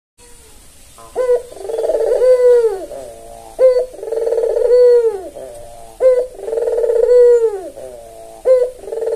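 Albino white Barbary dove (puter) cooing steadily. Its phrase repeats about every two and a half seconds, four times: each is a short sharp note followed by a long low coo that falls away at the end.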